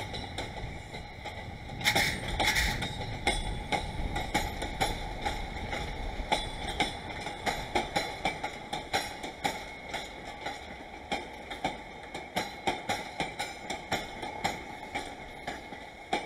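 JR West 221 series four-car electric train rolling slowly through a rail yard, its wheels clicking over rail joints and points in a fairly even rhythm over a low rumble that fades after the first few seconds. A brief louder noise comes about two seconds in.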